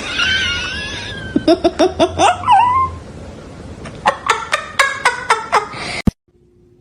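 Cat meowing and yowling: a long wavering call, then a run of short rising meows, then a quick string of short repeated calls about five a second that cuts off suddenly near the end.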